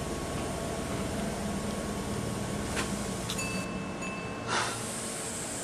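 Steady running noise of an electric train with a constant electrical hum. A few light clicks and a brief thin tone come around the middle.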